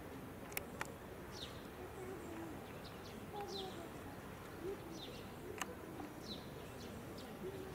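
Birds chirping outdoors: short, high, falling notes repeated every second or so over a steady background hiss, with a few sharp clicks, two close together about half a second in.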